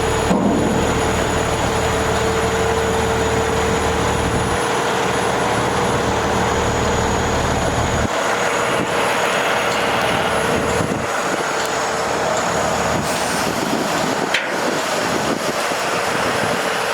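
Dump truck's Cummins ISX diesel running with a steady whine over it; the low rumble drops away about eight seconds in, and a sharp click comes near the end.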